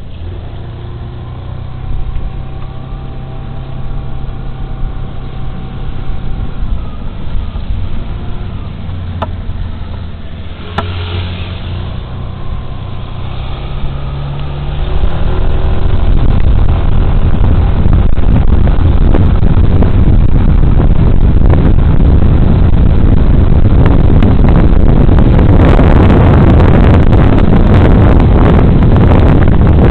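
Suzuki Burgman Street 125 scooter's single-cylinder engine running at a steady low speed. About halfway through it picks up speed and loud wind noise over the body-worn microphone takes over.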